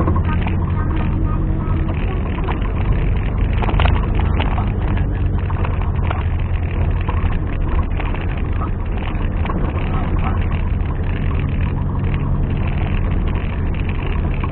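Off-road 4x4's engine running with a steady low drone, with a brief knock about four seconds in.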